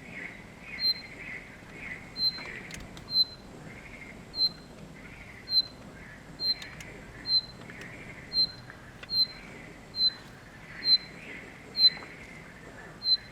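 Common nightingale repeating a short high note about every 0.7 seconds, with softer lower notes between.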